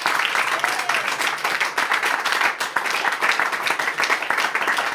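Small audience clapping and applauding steadily at the end of a song.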